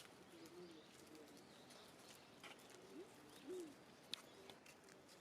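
Faint low bird calls: a few short calls that rise and fall in pitch, with scattered faint clicks.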